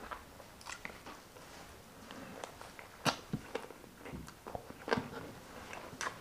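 Chewing and mouth sounds of someone eating grilled chicken inasal and rice by hand: irregular wet smacks and clicks, with sharper ones about three and five seconds in.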